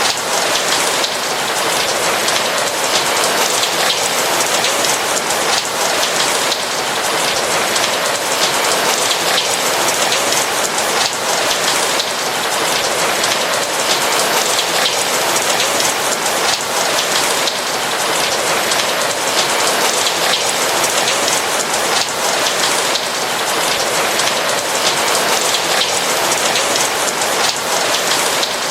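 Steady rain falling, with many small drops pattering on a roof.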